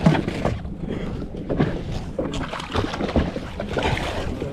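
Wind buffeting the microphone and water slapping against an inflatable boat's hull, with scattered knocks and thumps on the boat.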